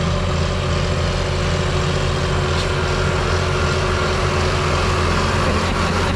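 A vehicle engine running steadily at idle, a constant low hum that does not change.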